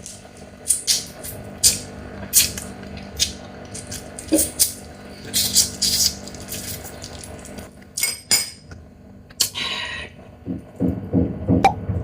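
Close-miked eating of a Chinese mitten crab: a run of sharp, irregular cracks and wet sucking clicks as the shell is broken and the meat pulled out, with softer chewing near the end.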